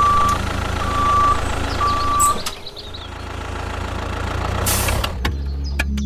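Vehicle reversing alarm beeping three times, about once a second, over a steady low engine rumble. A short hiss comes near the end.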